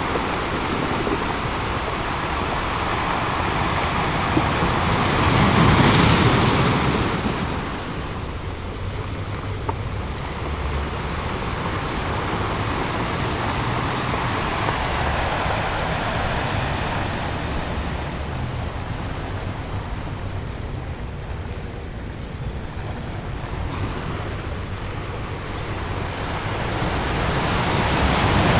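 Ocean surf: waves breaking and washing in as a steady rush, with one big wave crashing about six seconds in and another building near the end.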